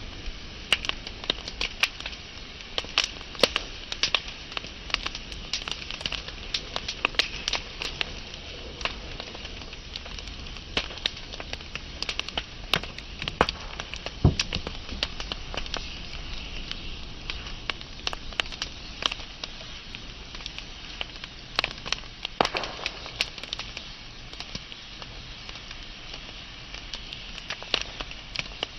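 Wood fire burning, with frequent irregular sharp crackles and pops over a steady hiss.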